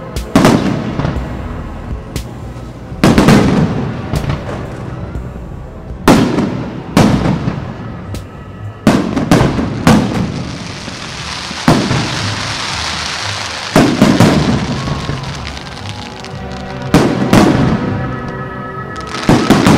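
Aerial fireworks shells bursting, a string of sharp booms every one to three seconds. A spell of dense crackling comes about halfway through.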